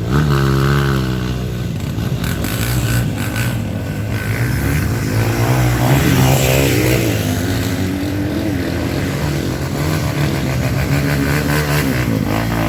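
Trail motorcycle engines revving, the pitch rising and falling again and again.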